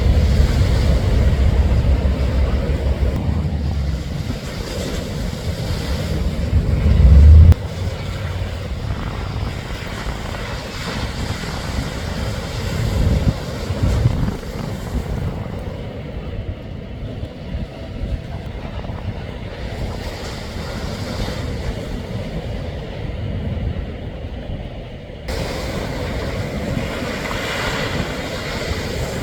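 Strong trade wind buffeting the microphone over the steady wash of ocean surf. The wind rumble is heaviest for the first several seconds, peaking in a loud gust about seven seconds in, then eases.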